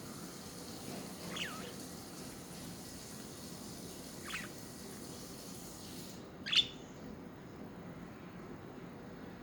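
Budgerigar giving three short chirps spread a few seconds apart, each a quick falling note, the third loudest, over a steady low background noise.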